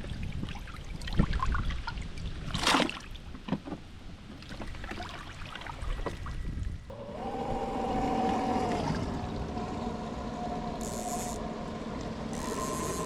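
Outdoor water and wind noise with a few sharp knocks or splashes. About seven seconds in, steady background music begins.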